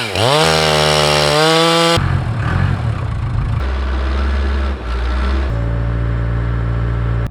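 A two-stroke chainsaw revs up quickly and runs at full throttle for about two seconds, then cuts off abruptly. The rest is a heavy diesel machinery engine running, its steady pitch shifting in sudden steps a few times.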